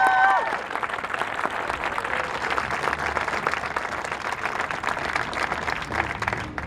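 A crowd applauding and cheering. A held chord from the marching band's horns cuts off about half a second in.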